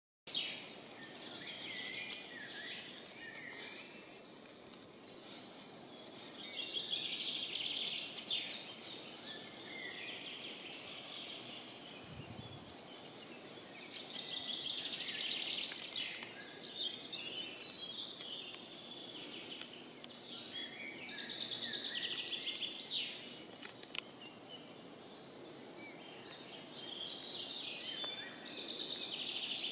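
Songbirds singing in short twittering phrases that recur every few seconds, over a faint steady low hum. There is a single low thump near the middle and a sharp click later on.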